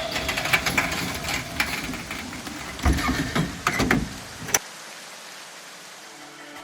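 An engine running with scattered knocks and clatter, dropping away to a faint hiss after about four and a half seconds.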